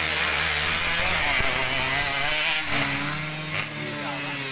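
Motocross dirt bike engine running and revving on the track, its pitch drifting up and down, a little quieter in the second half.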